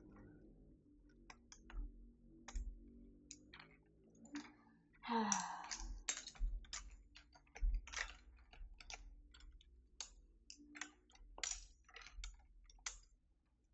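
Irregular plastic clicks and clacks of keycaps being pulled off and pressed onto the switches of a Keychron V6 Max mechanical keyboard, with a longer, louder noise about five seconds in.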